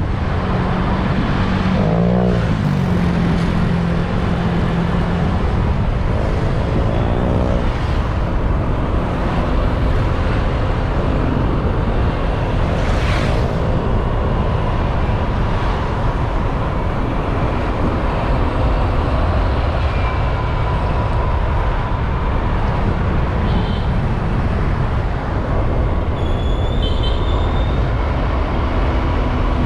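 Wind rushing over the microphone and a motorbike engine running on the move, making a steady loud rumble. Passing traffic sounds briefly over it now and then.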